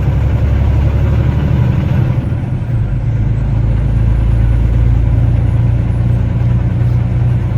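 Semi truck's diesel engine running, heard from inside the cab as a steady low drone.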